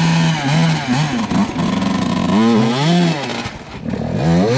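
Dirt bike engine running at a steady low speed with small throttle blips, then revving up and back down twice, the second rev coming near the end.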